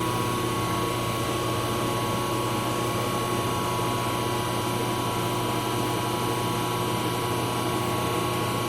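A lathe running at a steady speed: a constant hum with a steady whine over even machine noise, starting suddenly.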